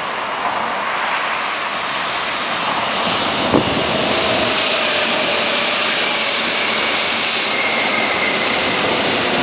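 Electric commuter train running into the station alongside the platform: a broad rushing noise that grows louder about three seconds in, with a single sharp knock just after, then a steady high whine over the rush as the cars slide past.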